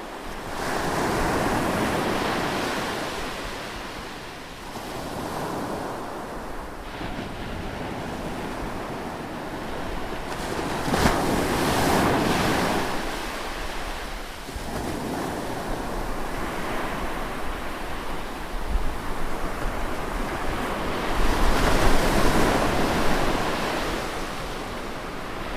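Ocean waves breaking on the shore in slow surges about ten seconds apart, each swelling up and washing back into a steady surf hiss, with a low wind rumble on the microphone.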